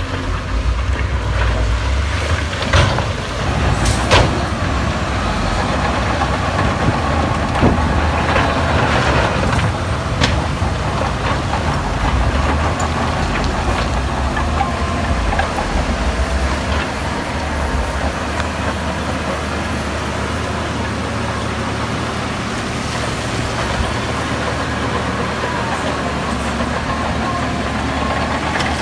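Heavy diesel earthmoving machinery running, a steady low engine drone, with a few sharp knocks in the first ten seconds or so.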